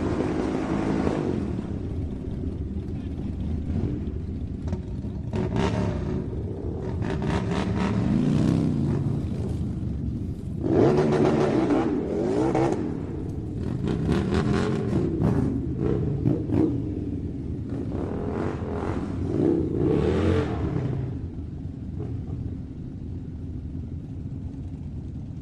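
Motorbike engine running while riding, its pitch rising and falling with the throttle, with several louder rushing surges of a few seconds each, a few seconds apart.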